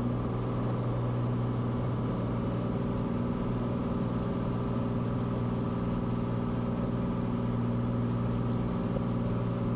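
Light aircraft's engine and propeller droning steadily in the cockpit, at an even pitch and level.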